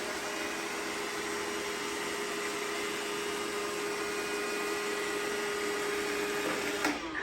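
Robot vacuum running: a steady whir from its suction motor and brushes with a steady hum in it. It cuts off suddenly near the end as the robot reaches its charging dock.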